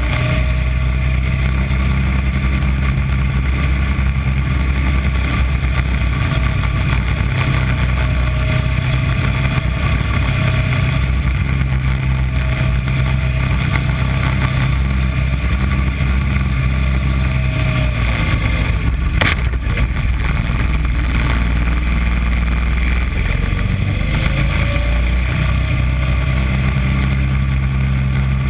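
Small engine of a mini Corvette race car running steadily under load, heard from on board, its low drone easing off briefly about two-thirds through and again near the end before picking back up. A single sharp click about two-thirds through.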